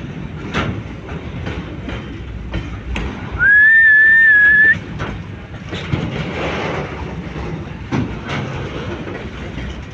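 Container freight train wagons rolling past, with a steady rumble and the clickety-clack of wheels over rail joints. Just past three seconds in, one shrill single-note whistle lasts about a second and a half and is louder than the train.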